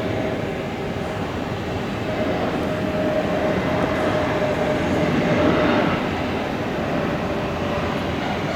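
Steady rumble of a large passing vehicle, with a faint whine that grows a little louder and slightly higher in the middle.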